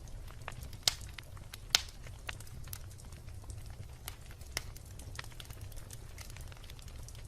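Wood campfire crackling: irregular sharp pops and snaps over a low steady rumble of the flames, with two louder pops about one and two seconds in.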